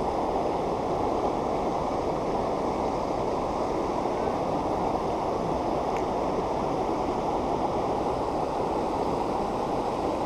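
Steady rush of water pouring over a river waterfall, an even, unbroken roar.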